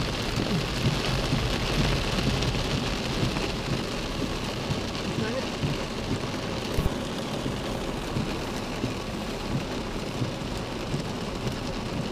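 Heavy rain pelting the car's roof and windscreen, heard from inside the car, with a steady low rumble beneath.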